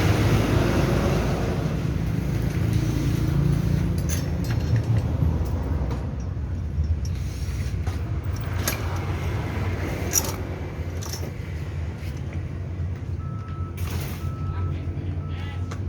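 Chainsaw chain being fitted onto the bar: a few separate metal clicks and rattles over a steady low background rumble.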